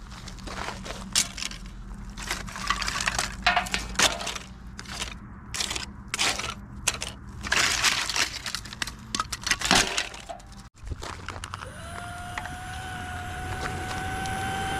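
Irregular scraping and crackling strokes for about ten seconds. Then, after a short break, a small electric motor spins up to a steady whine.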